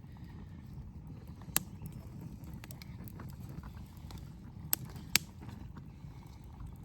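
Low steady rumble of a small pot of water coming up to heat on an Esbit solid-fuel stove, with three sharp clicks, one about a second and a half in and two close together near five seconds.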